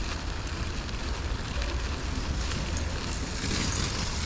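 Wind rushing over the microphone while riding a bicycle: a steady low rumble with a hiss above it, the hiss a little stronger about three and a half seconds in.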